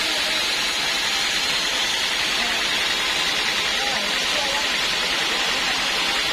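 Sawmill band saw running steadily, a constant high, hissing machine noise with no breaks, with faint voices in the background.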